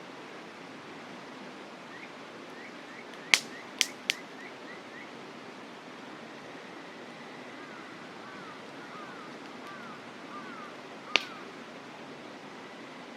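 Campfire wood popping: three sharp cracks in quick succession a few seconds in and a single crack later, over the steady rushing of a mountain river. Faint short chirps repeat in the background in two stretches.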